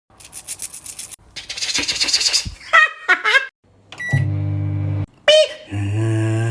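Microwave oven sounds: hissing and clicking, then a short beep and a steady low electric hum of about a second that cuts off abruptly. A second hum of the same pitch follows, slightly wavering, as a man copies it with his mouth.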